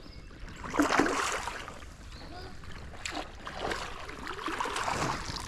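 Water splashing and sloshing against a kayak in uneven bursts, a hooked bass thrashing at the surface as it is brought alongside.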